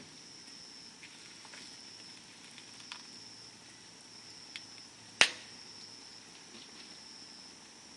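Wood campfire burning with a few sparse small crackles and one sharp, loud pop about five seconds in. A steady high insect trill runs underneath, with brief breaks.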